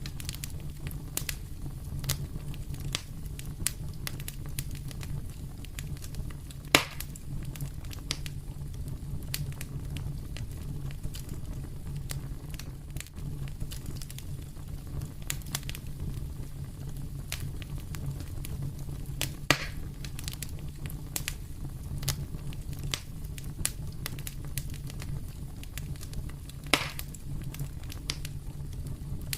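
Fire in a fireplace crackling, with a scatter of small snaps and three louder pops, over a steady low rumble.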